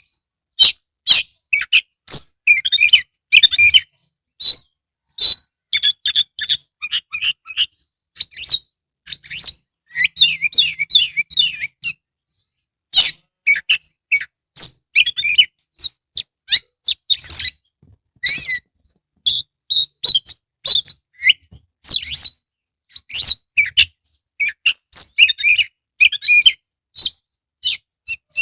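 Oriental magpie-robin (kacer) in full song: rapid, varied phrases of whistles, chirps and sharp high notes, broken by short pauses.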